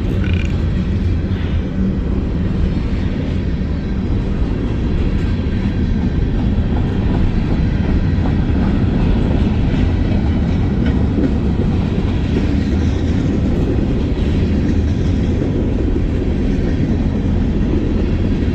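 Freight train rolling along at about 20 to 25 mph, heard from aboard one of its cars: a steady low rumble of wheels on the rails, with a fainter hiss above it.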